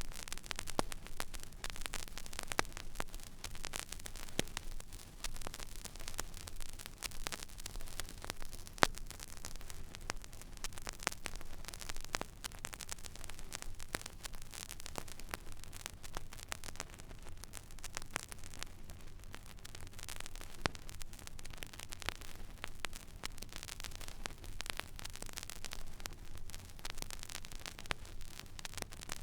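Stylus running in an empty, silent vinyl record groove: steady surface hiss with scattered crackles and small pops, one sharper pop about nine seconds in, over a low hum.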